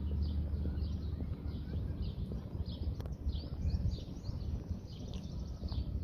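Small birds chirping: a quick series of short high chirps, two or three a second, over a steady low rumble.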